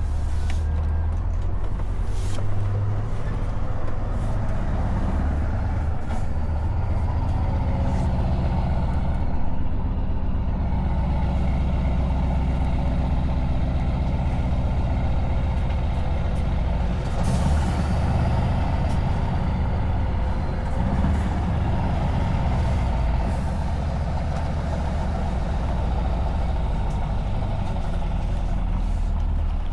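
Scania S truck's engine running steadily while driving, heard through open, unsilenced exhaust pipes. A brief hiss comes about two-thirds of the way in.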